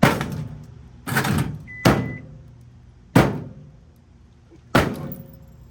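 Hamilton Beach 1,000-watt microwave being smashed: five loud blows on its casing, each ringing out briefly. A short, high electronic beep from the microwave sounds about two seconds in.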